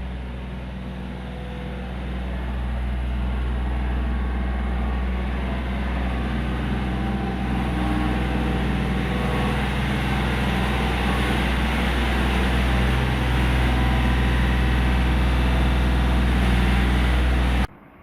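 Kioti compact tractor's diesel engine running steadily, growing a little louder over the first few seconds, then cutting off suddenly near the end.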